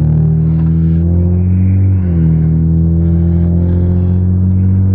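Car engine heard from inside the cabin while accelerating: its note climbs, drops about two seconds in as it shifts up a gear, then climbs steadily again.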